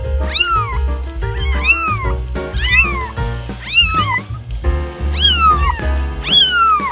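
Kitten meowing repeatedly, about six high calls that each rise and then fall in pitch, over background music with a steady bass beat.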